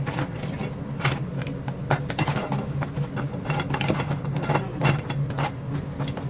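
Crabs frying in hot oil in an uncovered pan, sizzling with irregular pops and crackles, over a steady low hum.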